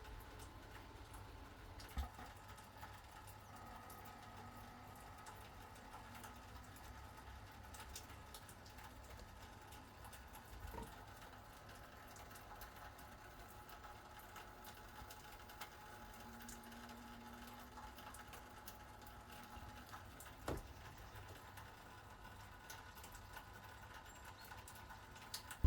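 Near silence: faint room tone with three soft clicks, spread far apart.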